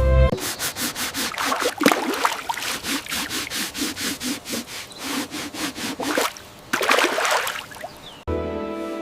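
Quick rhythmic scraping, about four strokes a second, for roughly six seconds, followed by a few longer swishes.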